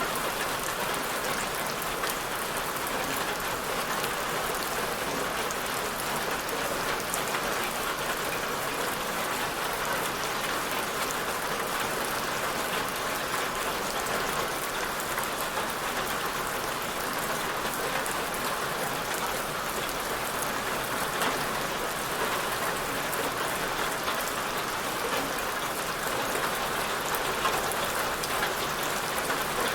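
Steady rainfall hitting a surface, a dense even hiss of many small drop ticks.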